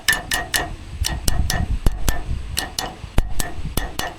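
Hammer blows driving a new bearing onto the Hesston haybine's drive shaft: a run of sharp metal-on-metal strikes, about three or four a second, each ringing briefly.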